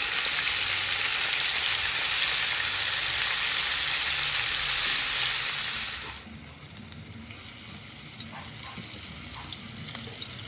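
Ground-beef croquettes on tortilla pieces sizzling loudly in hot oil in a frying pan as they are turned with tongs. About six seconds in, the sizzle stops abruptly and is followed by a much quieter stretch with a few soft clicks, as raw croquettes are set into a pan of fresh oil.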